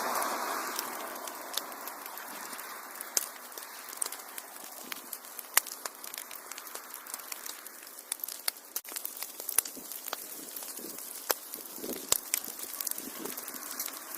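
Wood fire in a fireplace crackling, with frequent sharp pops over a soft hiss. A louder rushing hiss at the start dies down over the first couple of seconds.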